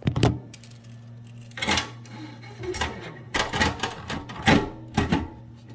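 Metal faucet parts clinking and knocking as they are handled and fitted: a sharp knock at the start, then several bursts of clatter.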